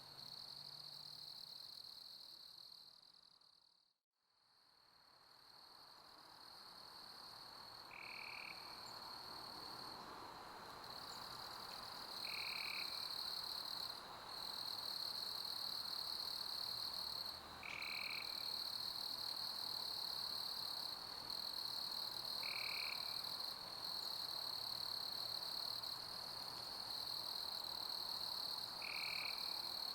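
Chorus of crickets chirping in a steady high trill over a hiss of pink noise. It fades almost to silence about four seconds in and then fades back up. A short higher call repeats about every five seconds.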